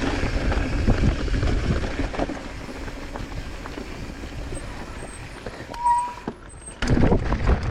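Mountain bike rolling fast down a rocky alpine trail: tyres crunching over loose rock and the bike rattling, with a steady rumble of wind and motion on the microphone. There is a short quieter dip about six seconds in, then the rattling grows louder near the end.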